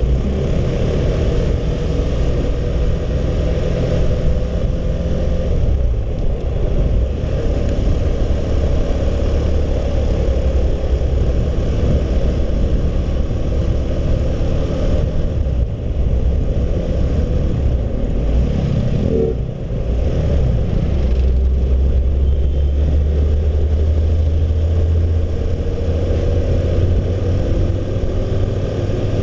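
Motorcycle riding noise from a Honda CB150R: steady wind rumble on the microphone over the single-cylinder engine running at road speed, with a brief easing about two-thirds of the way through.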